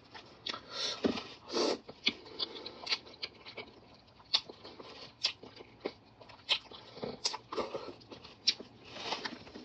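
Close-miked eating sounds: chewing with irregular small clicks, crunches and wet mouth noises.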